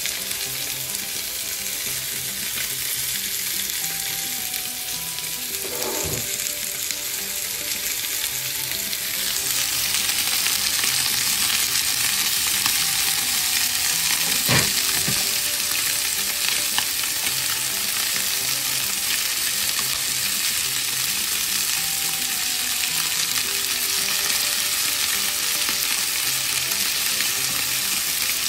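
Chicken pieces sizzling as they are lightly fried in hot oil in a pan, the sizzling growing louder about nine seconds in, with two brief knocks along the way.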